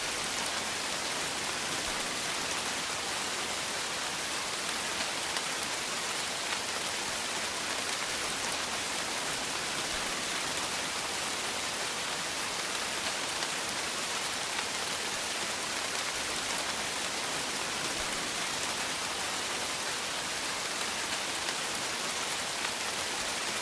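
Light rain falling steadily: an even hiss that does not change.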